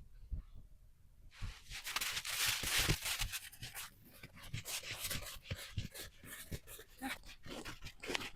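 Crunching footsteps in snow: a quick run of short crunches that starts about a second in.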